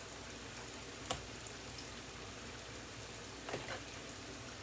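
Mushrooms sauteing in a frying pan: a steady, even sizzle, with one sharp click about a second in and two lighter clicks near the end.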